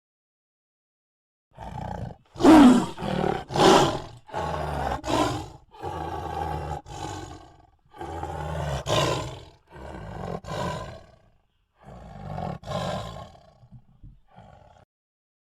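A lion roaring: after a second and a half of silence, two loud roars, then a run of shorter roars and grunts that grow fainter toward the end.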